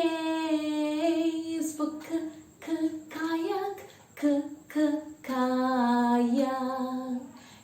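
A woman singing a children's phonics song in long, held notes, with short breaks between phrases.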